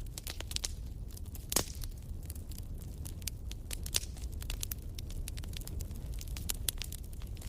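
Wood fire crackling in a fireplace: irregular sharp pops and snaps over a low steady rumble, with one louder, longer pop about a second and a half in.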